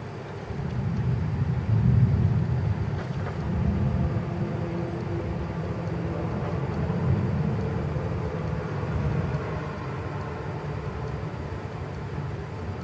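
Rolling thunder: a deep rumble that builds about half a second in, is loudest around two seconds, and keeps rolling with smaller swells before slowly dying away.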